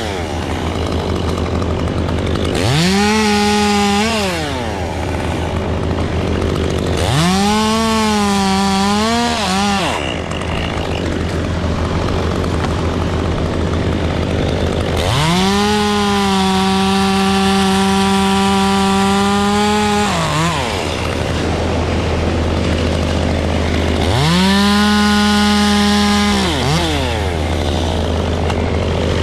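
Two-stroke chainsaw revved to full throttle in a series of bursts of a few seconds each, cutting wood. Under load the pitch dips and wavers. The engine drops back between bursts over a steady low drone.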